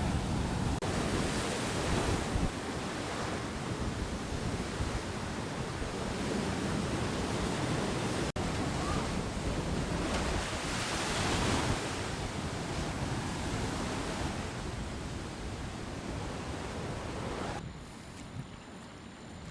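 Heavy ocean surf breaking and washing ashore, swelling and easing, with wind buffeting the microphone. About 18 s in it drops to a quieter, thinner sound.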